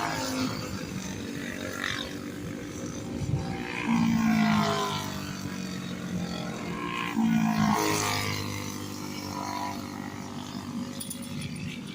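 Small racing engines running on the track, with two loud pass-bys rising and fading, one about four seconds in and another about halfway through.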